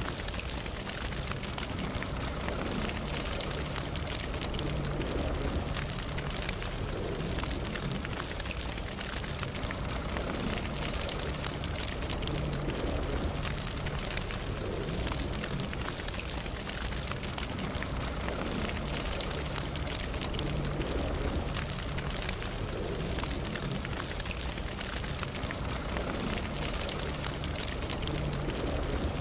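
Campfire burning: a steady rush of flame with dense small crackles and pops throughout.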